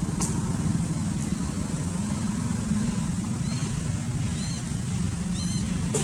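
Steady low rumble of a running engine. A few short, high chirping calls come over it past the middle.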